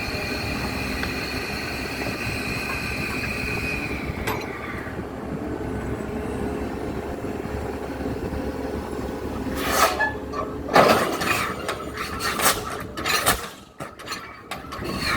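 Heavy machinery running with a steady low rumble and a high-pitched whine that stops about four seconds in. Several sharp metallic knocks and bangs at uneven spacing follow in the last few seconds.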